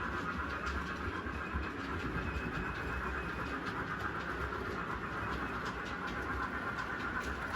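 Model train running on a layout: a steady motor whine over a low rumble, with light clicks of the wheels over the track.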